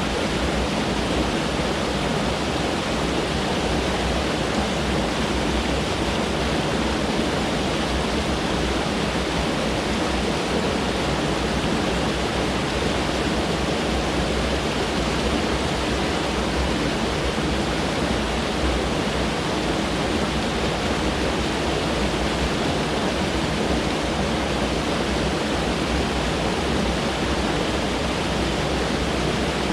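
Mountain stream rushing over rocks: a steady, loud water roar with no change in level.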